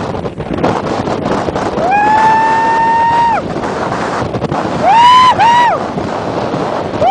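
Strong wind buffeting the microphone throughout, with loud high-pitched cries over it: one long, held cry about two seconds in, then two short ones about five seconds in, each sliding up, holding and dropping away. These are people yelling out at a kitesurfer being lifted by the gusts.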